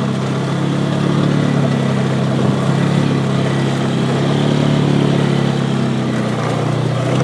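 Four-wheeler (ATV) engine running steadily under load, pulling uphill over rough dirt track, with small changes in pitch as the throttle varies.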